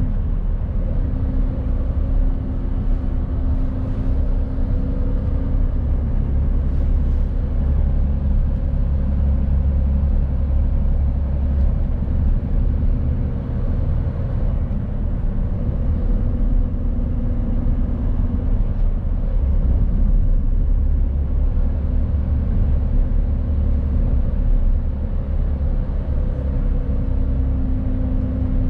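Mercedes-Benz Actros truck driving along, its diesel engine running at a steady low drone with road noise.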